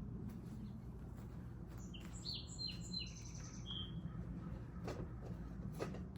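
Small birds chirping: a quick run of short, high calls about two to four seconds in, over a steady low rumble. A few light clicks come near the end.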